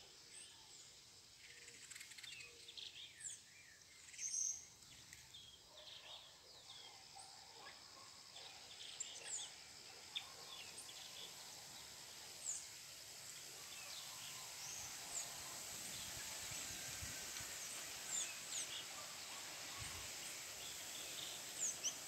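Small birds chirping: short, high chirps and tweets scattered throughout, the loudest about four seconds in, over a steady high hiss that grows slightly louder in the second half.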